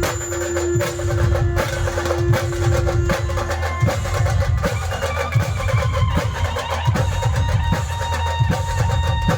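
Dhol-tasha drumming playing the 'train sound' rhythm: fast, dense drum strokes with heavy low beats, over long steady held notes from a melody instrument.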